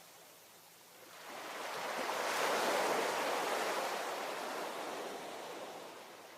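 Ocean wave breaking and washing up the shore: a single swell of surf that builds about a second in, peaks, then slowly fades back to a quiet background wash.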